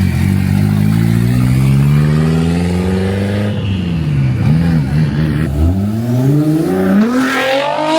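A car engine accelerating hard, its pitch climbing steadily for about three seconds. Then come two quick revs up and down, and it climbs again near the end.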